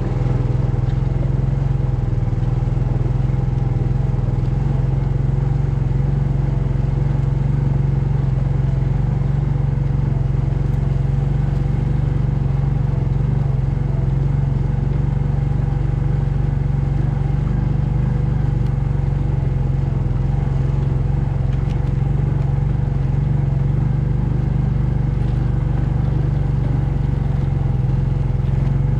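An engine running steadily at an even speed, with a strong low hum that holds without revving up or down.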